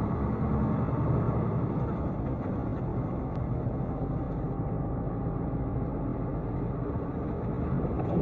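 A car driving, with a steady run of engine and road noise and no crash or impact.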